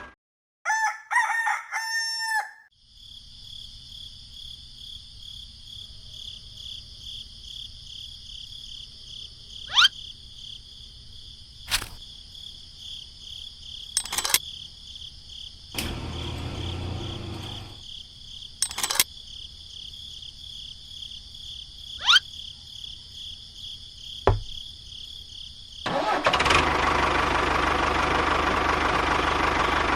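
A rooster crows briefly, then a steady high chirring of crickets runs on with a few sharp clicks. Near the end a small motor starts up and runs loudly.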